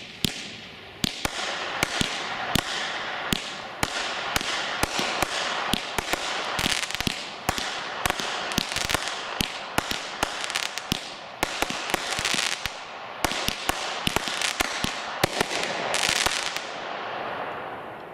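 Consumer fireworks cake (Shogun's 'Give It Up') firing a rapid, irregular string of sharp bangs over a steady hiss, which fade out near the end as the cake finishes.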